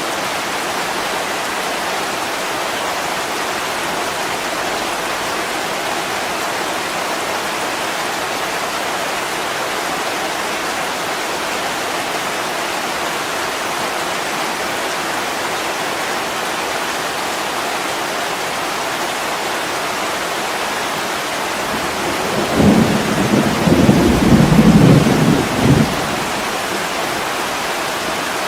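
Heavy rain pouring steadily on a window pane, with a low rumble of thunder rolling for about four seconds near the end.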